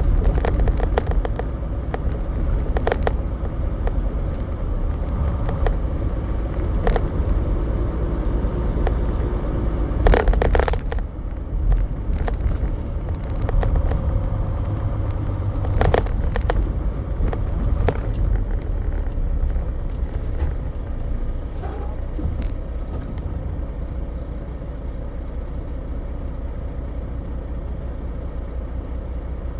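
Semi truck driving: a steady low engine and road rumble with scattered knocks and rattles, the loudest about ten seconds in.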